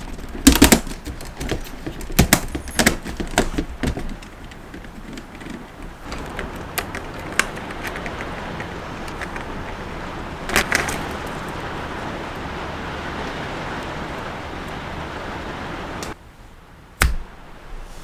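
Plastic Lego Technic parts clicking and clattering, then a Lego pneumatic engine running steadily on compressed air, a continuous rushing hiss, which cuts off suddenly near the end, followed by a sharp knock.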